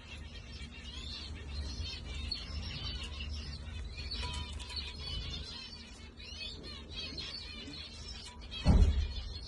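Many birds chirping at once, a dense run of short high calls over a low rumble. One loud low thump comes near the end.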